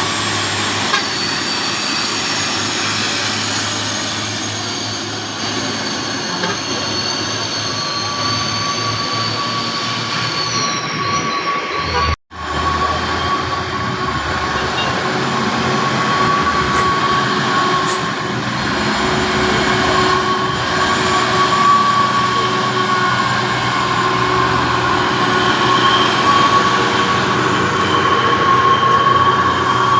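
Heavy diesel trucks labouring up a steep hill, engines running under load with steady high-pitched whines over the noise. The sound cuts out for an instant about twelve seconds in.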